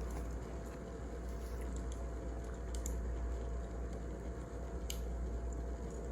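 Wood fire crackling: a steady low rumble with a few sharp, scattered pops.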